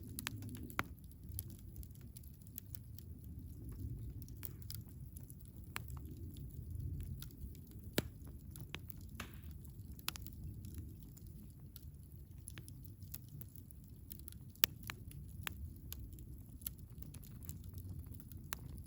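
Wood fire burning in a Picogrill 398 brazier: irregular sharp pops and crackles over a low, steady rumble of the flames, with a few louder pops.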